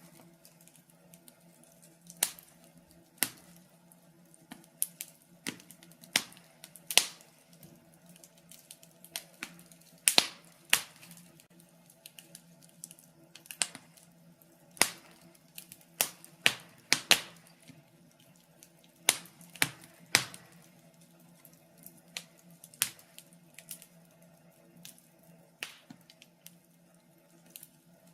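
Wood logs burning in a fireplace, crackling with irregular sharp pops and snaps, a few louder ones around the middle, over a faint steady low hum.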